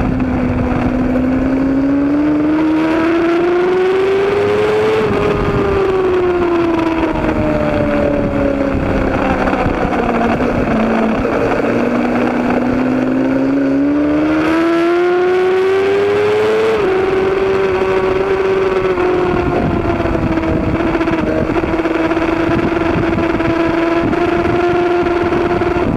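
Racing motorcycle engine running hard, its pitch rising and falling slowly as it accelerates and eases off, with a sudden drop in pitch partway through, then holding fairly steady.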